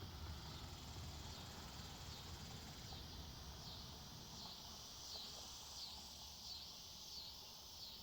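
Faint woodland ambience: an insect calling in high chirps that repeat about every three-quarters of a second from a few seconds in, over a steady high hiss and low wind rumble.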